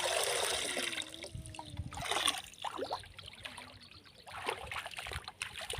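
Water splashing and trickling in irregular bursts, loudest at the start and again about two seconds in.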